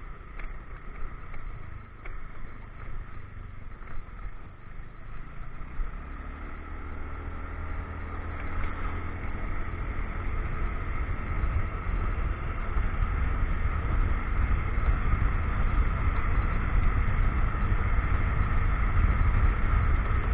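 Motorcycle engine running while riding, speeding up from about six seconds in, its note rising and growing steadily louder.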